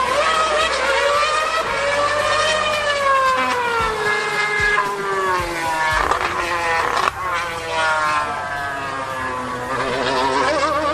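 2013 Formula 1 car's 2.4-litre V8 engine at high revs, its high-pitched note sliding down over several seconds, lowest about six seconds in, then rising and falling again as the car changes speed.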